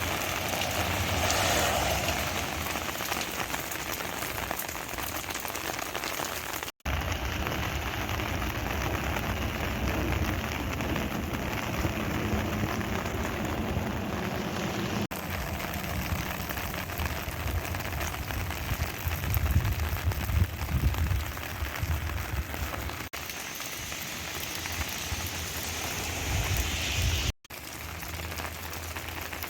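Steady light rain falling, a continuous even patter of drops. The sound cuts out briefly twice.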